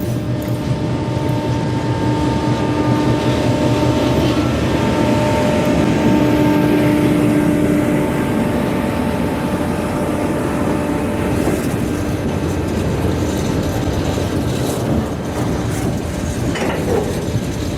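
Diesel train running past, its engine holding a steady tone over the noise of wheels on the track.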